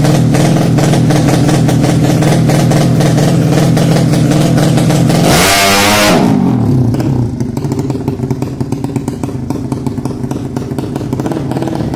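Modified 200cc horizontal-cylinder drag-bike engine running at steady raised revs, then a brief sharp rev about five seconds in whose pitch falls away, settling to a quieter idle.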